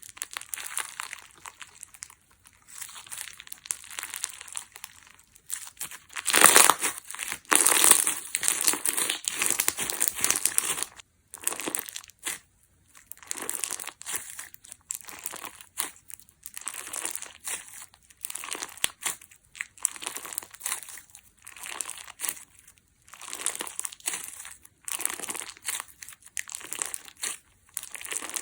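Crunchy clear slime full of air bubbles being squeezed and pressed by hand, crackling and popping in repeated bursts with short pauses between them. The loudest crunching comes about six to eleven seconds in.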